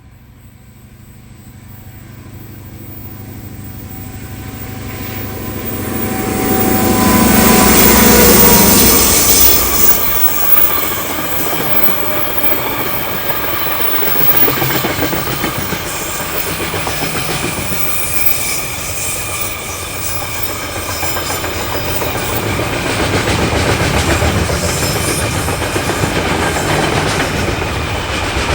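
Diesel-hauled freight train passing close by: the locomotive's engine builds up on approach and peaks about a quarter of the way in, its whine dropping in pitch as it goes by. Then a steady run of wagons rolling past with clickety-clack over the rail joints.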